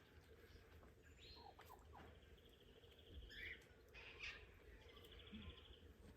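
Faint bird chirps and calls, including two short, rapid trills, over a low, steady rumble.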